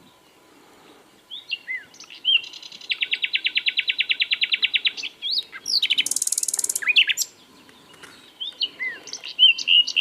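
Common nightingale singing in separate phrases: clear whistled and swooping notes, a fast rattle of about a dozen repeated notes a second, then a high buzzy trill. After a short pause, a new phrase of whistles and rapid notes starts near the end.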